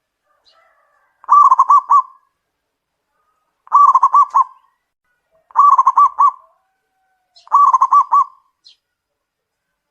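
Zebra dove (perkutut) calling loudly: four cooing phrases, each a quick run of rounded notes, about two seconds apart.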